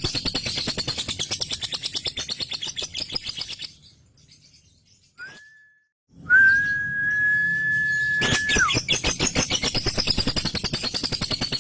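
Male lovebird's rapid, unbroken chattering trill (the 'ngekek' song). It breaks off a few seconds in, leaving a short near-silent gap. A long, steady high whistle follows, dropping in pitch at its end, and then the fast chatter resumes.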